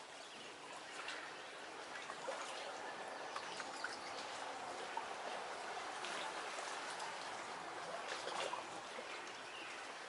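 Lake water gently lapping and trickling, a soft steady wash dotted with small irregular ticks.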